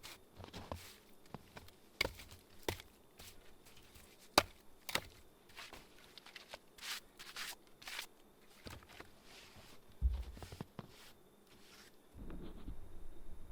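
Irregular sharp knocks and clicks with a few softer scuffs, spaced unevenly; near the end they give way to a steady low rumble with a faint high whine.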